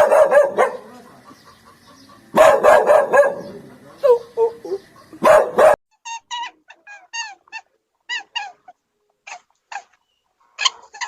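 A dog barking in four loud bursts over the first six seconds. After that come short, separate calls that crowd together near the end, typical of a chicken.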